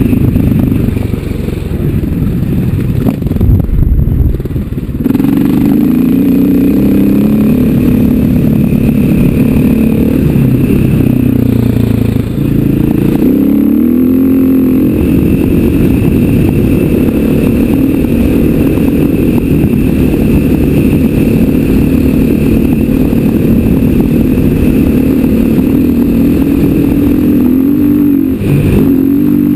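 KTM 500 EXC single-cylinder four-stroke dirt bike engine running under way on a rough dirt trail. The engine note sags briefly a few seconds in and again about halfway through, then climbs back up as the throttle comes on again.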